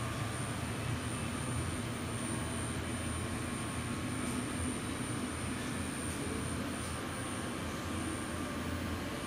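Weiler 160 CNC lathe running steadily: a continuous machine hum with a thin high whine over it.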